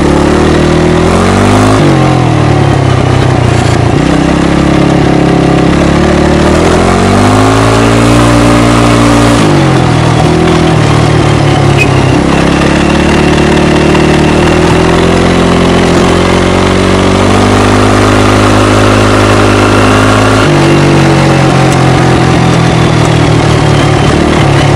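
ATV engine heard through an exhaust with its rear silencer removed, running loud as the quad is ridden, its pitch climbing and falling several times as the throttle is opened and closed.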